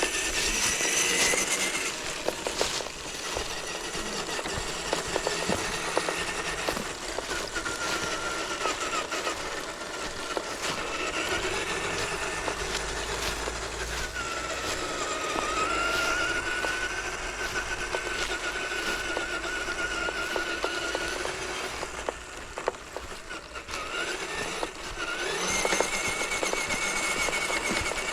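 Scale RC crawler's small electric motor and gearbox whining, the pitch rising and falling as the throttle changes, with scattered clicks and crackles as the truck crawls over the trail.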